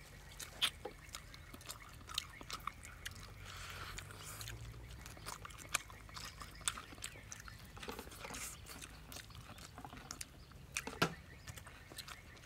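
A person biting and chewing fried chicken close to the microphone: many irregular small mouth clicks and smacks, with a sharper click near the end.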